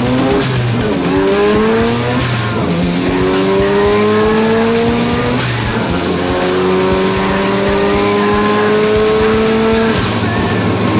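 Mazda RX-7 FD's twin-turbo rotary engine accelerating hard through the gears. The pitch climbs and drops at each upshift, about three times, then holds a long steady pull before falling away about ten seconds in.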